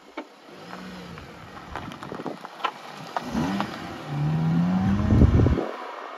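Honda Civic Type R's 2.0-litre i-VTEC four-cylinder engine revving, its pitch rising briefly and then rising again louder, before cutting off suddenly near the end. A few sharp clicks come before it.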